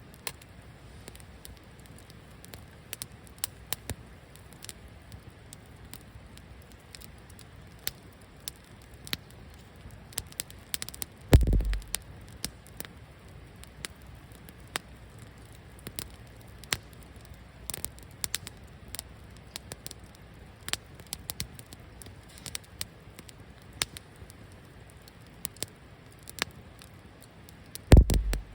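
Wood fire crackling, with sharp irregular pops and snaps scattered over a soft steady hiss. Two heavier thumps stand out, one a little over 11 seconds in and one near the end.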